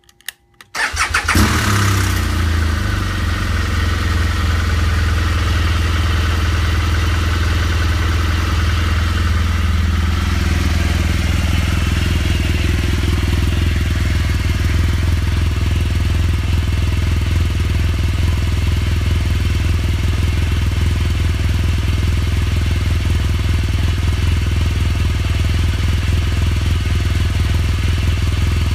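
BMW R1200GS Adventure's flat-twin boxer engine started with its electric starter, catching about a second in, then idling steadily.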